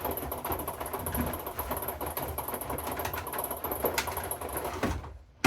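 Hoover inverter washing machine running its wash: a steady motor-and-drum rumble with uneven pulsing and faint ticks. Near the end it cuts off abruptly to near silence, and a sharp click follows.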